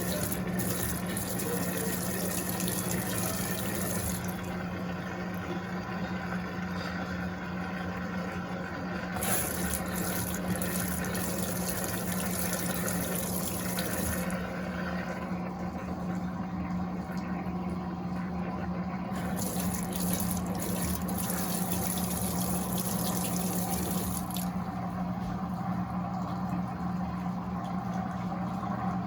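Electrolux LTA15 top-loading washing machine draining: a steady pump hum with rushes of water that swell and fade every ten seconds or so.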